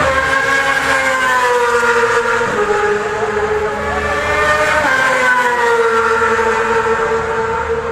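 Racing motorcycle engines at high revs going past on the track, their pitch sweeping down and back up several times as the bikes shift and pass.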